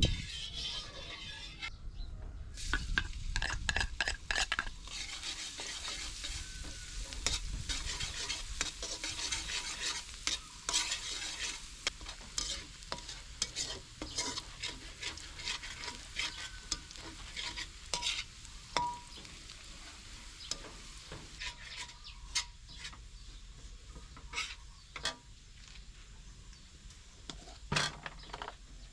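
Food frying in hot oil in a pan, sizzling steadily with frequent crackles and pops, and the occasional knock or scrape of a utensil stirring it.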